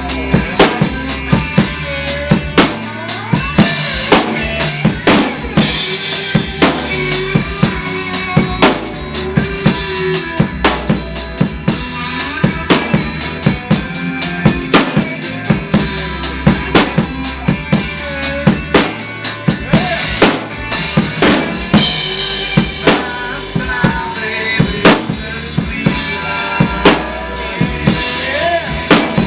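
Rock drum kit played with other music: a regular beat of bass drum and snare, with rimshots, under pitched lines whose notes bend up and down.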